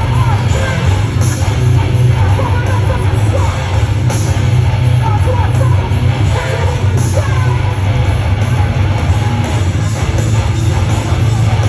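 A band playing heavy music live at loud volume, with distorted guitars and a deep, pounding low end. Bright crashing hits recur every few seconds.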